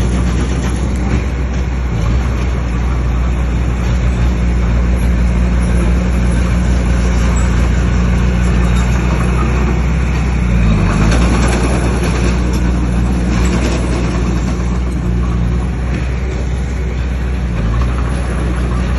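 Heavy diesel engine of a bulldozer running steadily under load. Its pitch dips and recovers about eleven seconds in.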